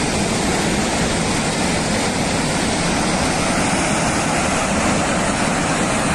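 Floodwater from a ruptured reservoir rushing down a mountainside: a loud, steady torrent.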